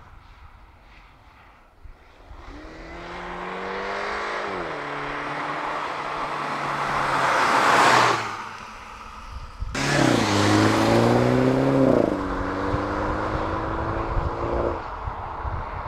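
2014 MINI Hatch accelerating hard. The engine note rises and drops at an upshift about four and a half seconds in, then the car sweeps past close by near eight seconds and the sound cuts off abruptly. After a second of quiet it accelerates again, with another upshift about twelve seconds in, then runs on steadily.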